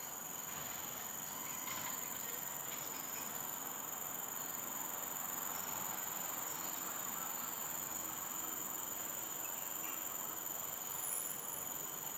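Steady, continuous high-pitched drone of insects over a soft background hiss.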